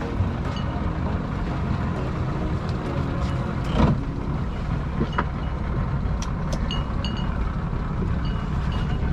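Boat engine running steadily with a low hum, with a brief louder surge about four seconds in. Several short, high electronic beeps sound in the second half.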